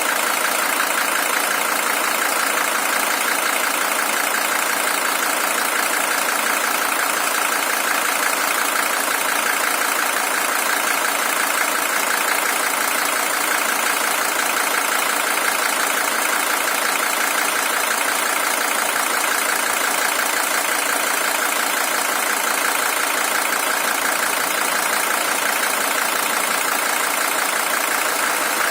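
Mercedes-Benz W123 300TD's OM617 five-cylinder diesel engine idling steadily. It is the original engine, with 620,000 km on it.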